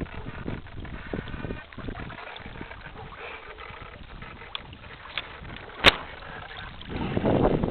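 Water splashing and lapping against the hull of a radio-controlled sailing yacht under way, heard from on board. A single sharp click comes about six seconds in, and the splashing grows louder near the end.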